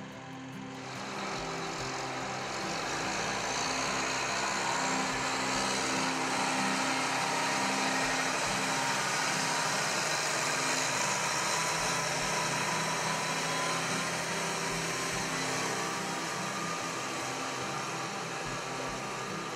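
Case IH MX275 tractor's diesel engine running steadily, with a broad rush of engine noise that swells about a second in.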